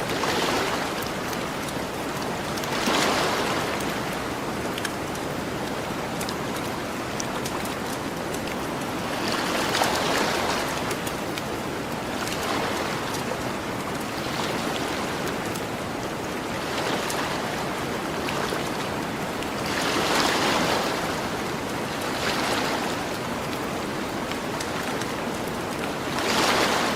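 Gentle ocean waves washing onto a beach, the surf swelling about every three to seven seconds over a steady hiss, with scattered small crackles of a campfire.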